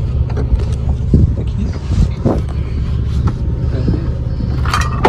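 Car driving, heard from inside the cabin: a steady low engine and road drone, with a few short thumps and rattles from the bumpy road.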